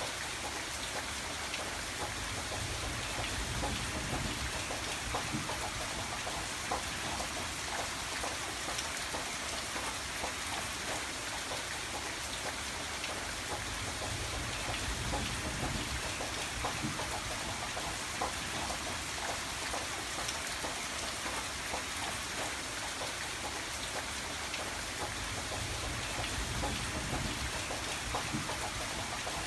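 Steady rainfall, with many individual drops ticking on a hard surface. A low rumble swells and fades three times beneath it.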